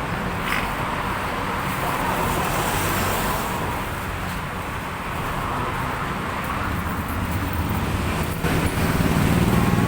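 Steady road traffic noise, with a vehicle's engine rumble swelling louder near the end.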